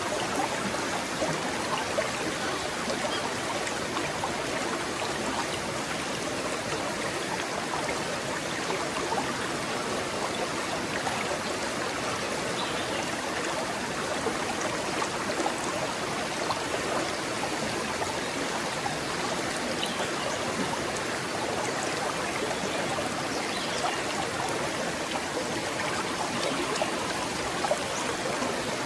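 A forest stream flowing and trickling over stones, a steady babble of running water.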